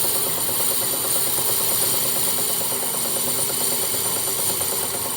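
A metalworking machine running steadily, giving an even, hissing noise with a faint high whine.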